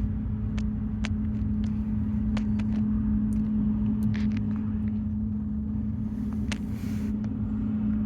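Steady low rumble with a constant hum, heard from inside a car with its engine running, with a few faint small clicks scattered through it.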